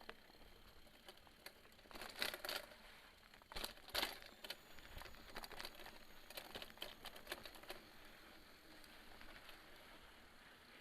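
Element Spy 2.0 mountain bike rattling and clicking as it rolls down a dirt trail descent, with two louder clusters of knocks about two and four seconds in.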